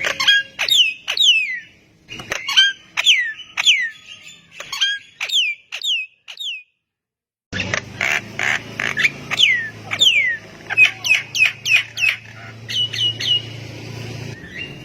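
Javan myna (jalak kebo) singing: a quick run of harsh clicks and chattering notes mixed with downward-sliding whistles. It breaks off into silence for about a second just before halfway, then starts again over a low steady hum.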